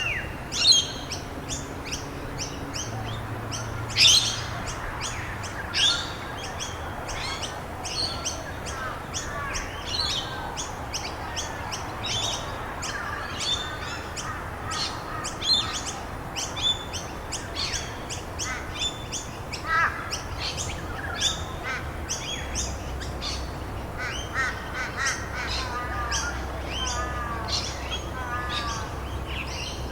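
A chorus of small birds chirping and singing rapidly and without pause, several voices overlapping, with brief warbled phrases now and then. A steady background hiss runs underneath.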